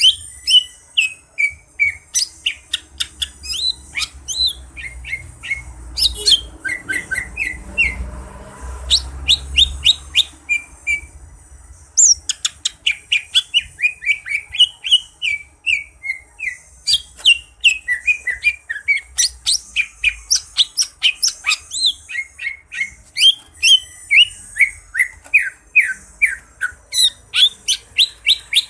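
Green leafbird (cucak ijo) singing a long, fast, varied song of rapid chirps and down-slurred whistles, packed with phrases mimicked from other birds. A low rumble runs under the first several seconds.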